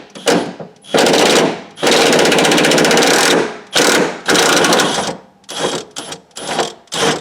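Power impact wrench hammering out a seat bolt in rattling runs: a long run of about a second and a half, then a string of short trigger pulls near the end.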